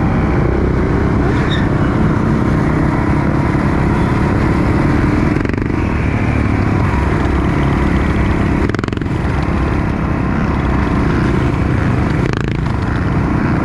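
Motorcycle engine running loud and steady, with three brief dips in level, the first about halfway through and the last near the end.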